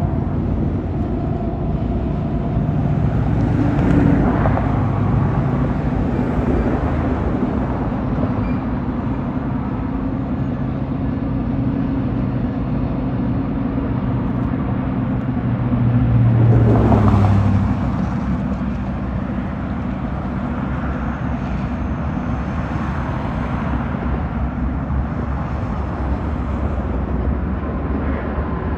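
Union Pacific diesel locomotives running with a steady low engine drone, swelling louder for about a second about two-thirds of the way through.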